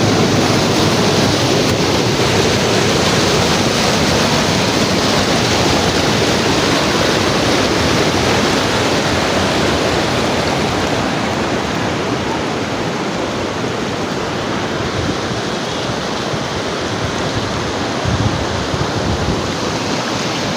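A steady, even rushing noise, like surf, falling water or wind on the microphone, that eases slightly about halfway through.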